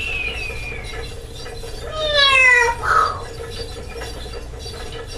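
Amazon parrot doing its 'whistle bomb' imitation: a whistle that slides down in pitch for under a second, like a falling bomb, ending in a short noisy burst for the explosion. A thinner high whistle trails down and fades in the first second.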